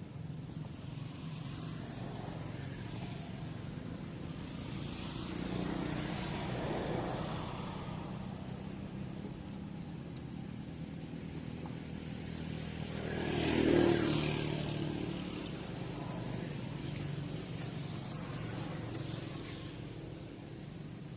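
Steady low rumble of motor-vehicle noise with two louder swells that build and fade as if passing by, the loudest about fourteen seconds in.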